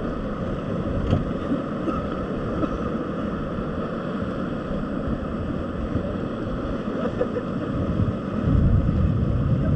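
Rushing river water around a raft with wind buffeting the microphone, a steady noise whose low rumble grows louder about eight seconds in.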